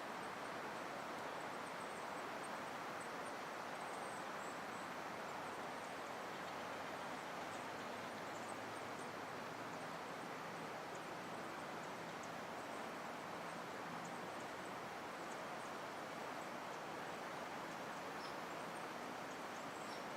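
Steady outdoor forest ambience: an even, continuous hiss, with faint high-pitched bird chirps scattered through it.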